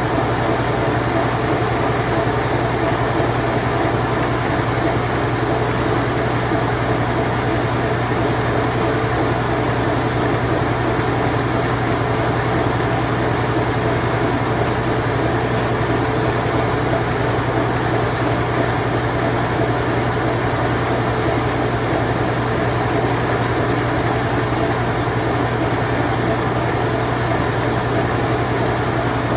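Whirlpool Imperial Clean Touch top-load washing machine from around 1990, running its spin cycle. It gives a steady hum with a strong low drone under an even whoosh, unchanging throughout.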